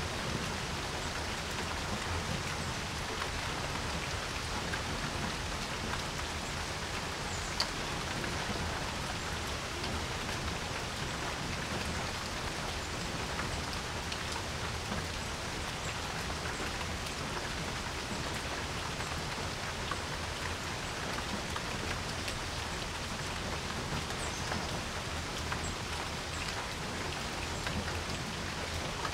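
Steady rain falling on a porch, an even hiss with scattered drips and one sharper drop about a third of the way in.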